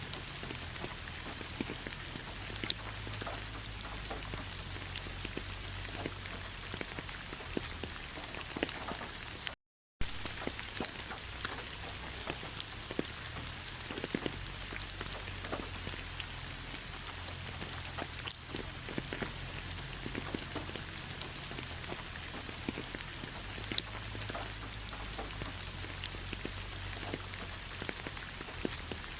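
Autumn rain falling on fallen leaves: a steady hiss with many irregular drop ticks. The sound cuts out completely for a fraction of a second about ten seconds in.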